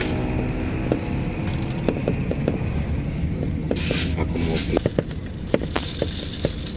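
Cabin noise of a double-decker coach on the move: a steady low rumble with many small rattles and clicks from the cabin fittings, and two short bursts of hiss about four seconds in.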